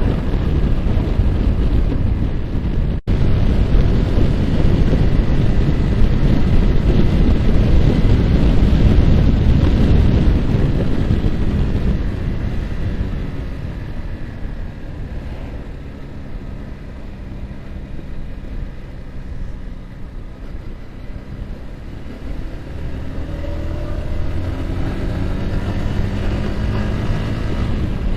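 Yamaha R15's single-cylinder engine under way, with heavy wind buffeting on the microphone. About halfway through the wind eases and the engine note comes through more plainly, then the revs climb near the end as the bike accelerates.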